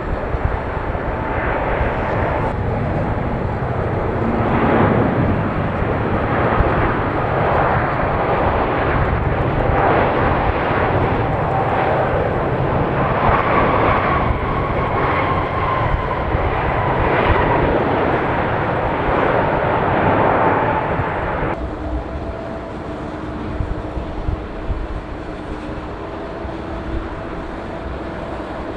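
Jet airliner's engines during takeoff: a loud, steady roar with a whine that falls slowly in pitch as the aircraft goes past. About three-quarters of the way through, the sound drops suddenly to a quieter, steadier hum with a few held tones.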